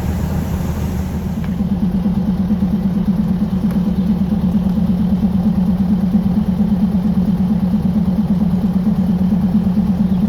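A diesel train's engine runs with a steady low, fast-pulsing drone, heard from aboard the train. It grows slightly louder about two seconds in.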